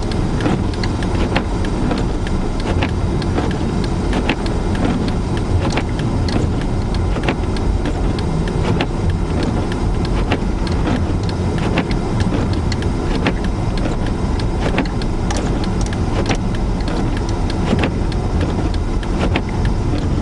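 Car driving through a blizzard, heard from inside the cabin: a steady low rumble of engine, tyres and wind, with many scattered sharp ticks.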